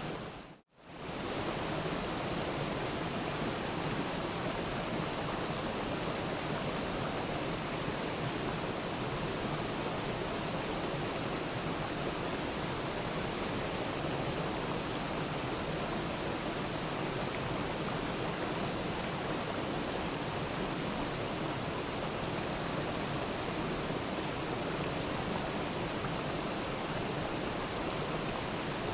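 Waterfall: a steady, even rush of falling water. It cuts out briefly about half a second in, then resumes unchanged.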